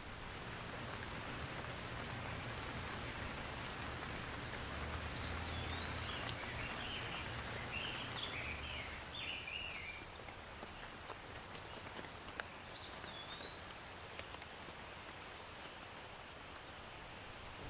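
Steady rain falling, with a bird calling in short chirps, first in a run through the middle and again briefly about three quarters through.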